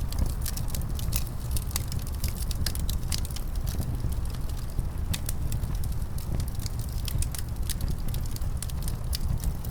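Wood fire crackling in a fireplace, with many sharp irregular pops and snaps, over a steady low rumble of winter wind.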